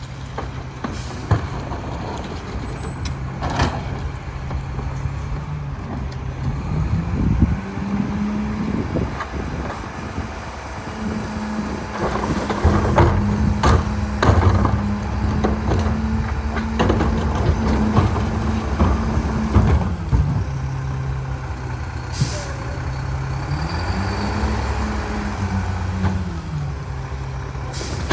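A Mack Granite garbage truck's diesel engine idles, then speeds up to a higher steady pitch for about twelve seconds in the middle and drops back, with another brief rise and fall near the end; the raised engine speed is typical of the New Way King Cobra rear loader's packer hydraulics running. Repeated clanks and knocks and a few short air-brake hisses sound over the engine.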